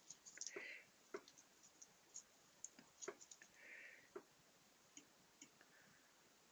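Near silence with scattered faint clicks and taps, like small hand tools being picked up and handled.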